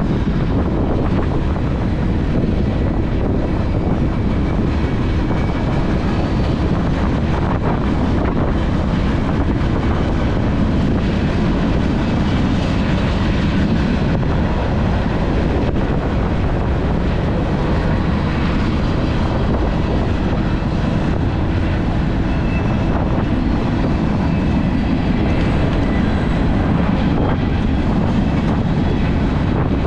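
Steady rumble of a train running alongside, mixed with wind rushing over the microphone of a moving electric scooter.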